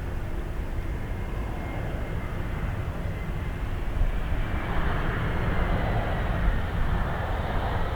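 Jet airliner engines rumbling steadily. The noise grows louder about halfway through, under a faint high whine that slowly falls in pitch.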